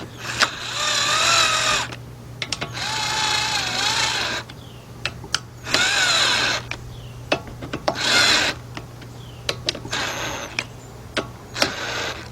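Power drill spinning a 10 mm socket in short bursts, about six of them, its pitch sliding up and down as the trigger is feathered. It is driving the mower carburetor's mounting bolts slowly into aluminum threads. Short clicks are heard between the bursts.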